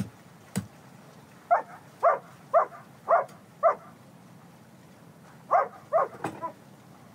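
A dog barking: five barks about half a second apart, then two more a couple of seconds later. A few sharp chops of a cleaver into a lamb carcass come before and after the barks.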